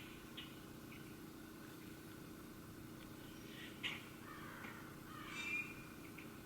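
Wild birds calling: a couple of short sharp chips and, about five seconds in, a longer harsh call, over a steady low background hum.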